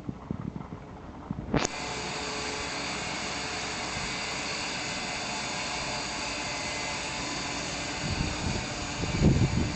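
Honda D16 four-cylinder engine that comes in suddenly about a second and a half in and then runs steadily at idle, with a few low thumps near the end.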